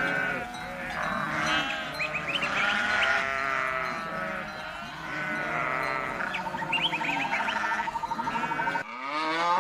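Several goats bleating, with many overlapping calls, some high and quavering. Near the end the sound cuts to a single lower, louder call.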